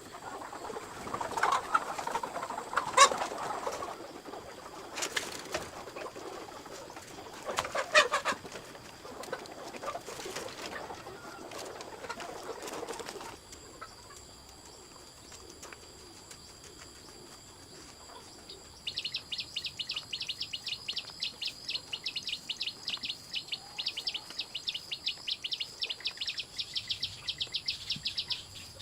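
Chickens flapping their wings and clucking, with sharp knocks. About halfway through the sound cuts to quieter background, and then an insect starts chirping in a fast, even, high-pitched pulse.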